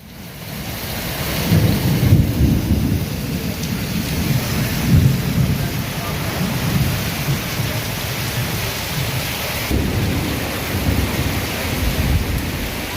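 Heavy rain falling in a storm with strong gusty wind, a steady hiss over a surging low rumble. It fades in at the start.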